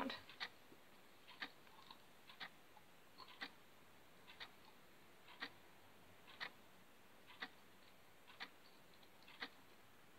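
Faint ticking of a clock, one sharp tick each second, in an otherwise quiet room.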